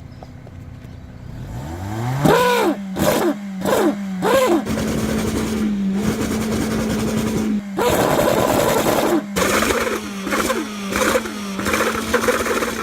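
Car engine being revved through an exhaust fitted with a DIY bicycle inner tube over the tailpipe: it starts about a second and a half in, then a string of quick revs rising and falling in pitch, a longer held rev in the middle and more short blips near the end, over a steady buzzing tone.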